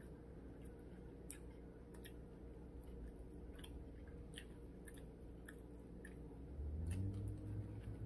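Close-up chewing of a teriyaki chicken sub, with irregular small wet mouth clicks over a steady low hum. A louder low hum comes in near the end.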